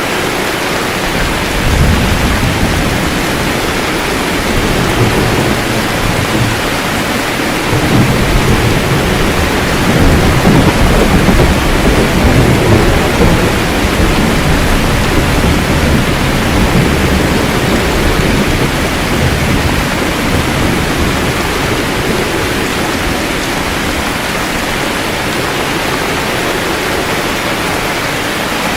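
Steady heavy rain with rolling thunder: low rumbles swell about two seconds in and again, more strongly, from about eight to thirteen seconds, then fade back to the rain alone.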